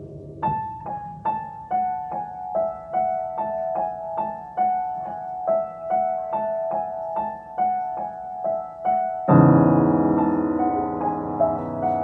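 Solo piano playing quick, evenly repeated notes in the upper-middle register, about two a second. About nine seconds in, a loud low chord is struck and rings on under softer notes.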